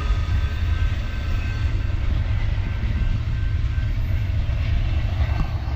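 Amtrak California Zephyr passenger cars rolling past, a steady low rumble of wheels on rail.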